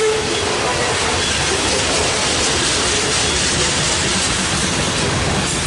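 Grain train's covered hopper cars rolling past, a steady noise of steel wheels on the rails.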